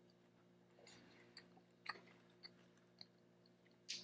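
Faint chewing and mouth clicks close to the microphone: a handful of soft, separate smacks spread across a few seconds, the loudest near the end.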